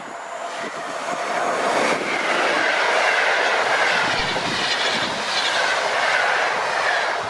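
Passenger train hauled by an electric locomotive passing close by. The noise of its wheels on the rails grows louder over the first two seconds as the locomotive nears, then stays loud and steady while the coaches roll past.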